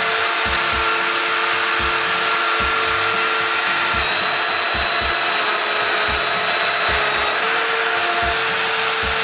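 Festool Domino joiner running with a steady whine while plunge-cutting mortises into cedar stiles, its pitch shifting slightly a few times as it cuts.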